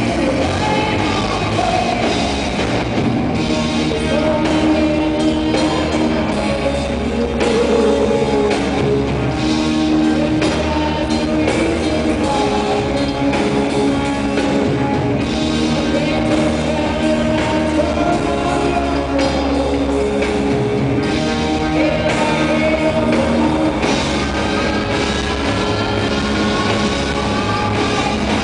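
An all-female rock band playing live: drum kit, electric guitars and bass with sung vocals, loud and continuous.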